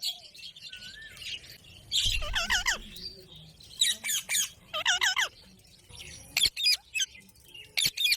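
A parrot giving three rounds of harsh, wavering squawks in its first five seconds, then a run of short, sharp chirps near the end.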